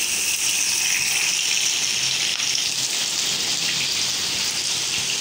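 Chapli kababs (spiced beef mince patties) sizzling in hot oil in a frying pan: a steady, dense crackling hiss.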